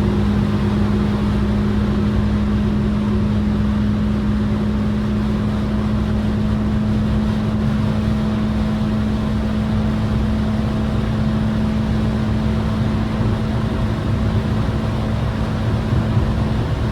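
Car engine running at steady revs: one constant engine note that neither rises nor falls.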